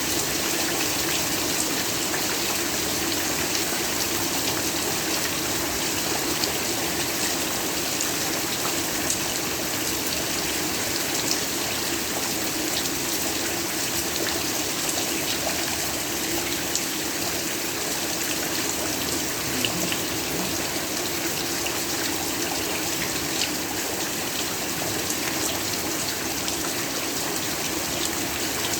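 Heavy rain falling steadily, a dense even hiss with scattered drop patter.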